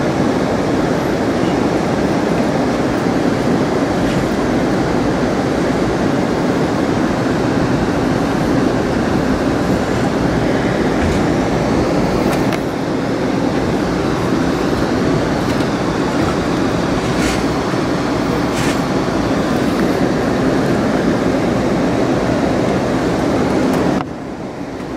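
Amtrak California Zephyr passenger train running at speed, a steady rumble and rush of wheels on rail heard from inside the car. A few faint clicks come about halfway through, and the noise drops suddenly near the end.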